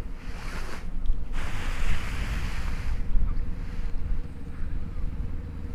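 Wind buffeting the microphone: a steady low rumble with gusts of rushing noise, strongest from about one and a half to three seconds in.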